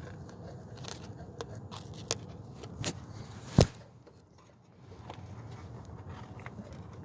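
Tools and parts handled during car repair work: light scrapes and small clicks over a low rumble, with one sharp click about three and a half seconds in.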